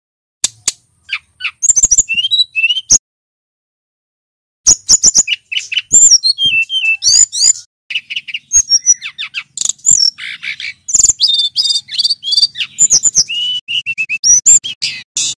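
Male brown-chested jungle flycatcher singing a fast, varied song of sweeping whistles, chirps and trills; a short phrase, a pause of about a second and a half, then a long almost continuous run of song.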